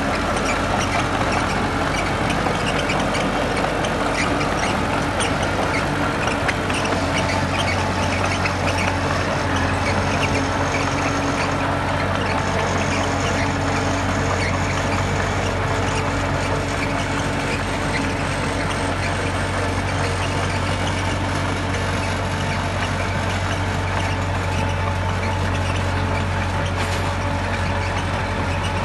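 Heavy diesel earthmoving machinery running steadily under load, a constant low engine hum with dense rattling and clatter over it.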